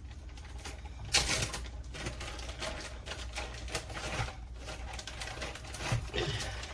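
Irregular clicks, knocks and rustling from food and containers being handled on a kitchen counter, with a louder rustle about a second in.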